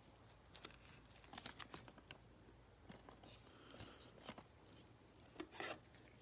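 Faint crinkling and light clicks of trading cards and cello-pack wrappers being handled, in scattered bunches, with the loudest couple of crackles near the end.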